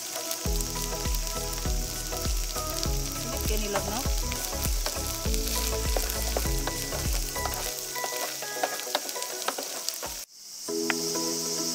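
Food sizzling and crackling in a hot pan, under background electronic music. About ten seconds in it cuts off abruptly to a steady high chorus of crickets, with the music going on.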